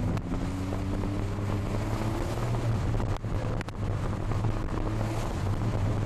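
Porsche 911 Carrera's flat-six engine heard from inside the cabin while driving, its pitch rising over the first couple of seconds and then holding, with two brief drops in level a little after three seconds in. Wind and road noise run under it.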